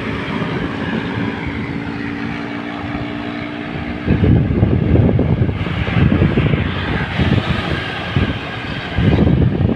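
Vehicle engine running at a steady pitch while on the move. About four seconds in, heavy wind buffeting on the microphone takes over.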